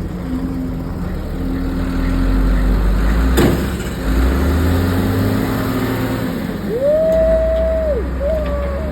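Heavy diesel machinery running under load in the mud, its low engine note shifting as the revs change. There is a sharp clank about three seconds in, and a high steady tone that rises, holds for about a second, then drops near the end, followed by a shorter wavering one.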